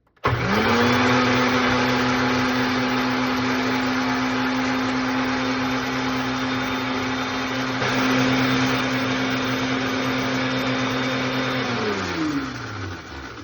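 Countertop blender motor starts, quickly spins up to a steady running speed, and blends a cilantro, lime and sour cream sauce for about eleven seconds, then is switched off and winds down with a falling pitch near the end.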